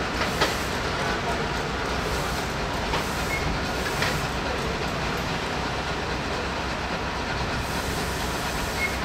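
Steady running rumble of a rail vehicle, even and unchanging, with a few sharp metallic clicks, the loudest about half a second in.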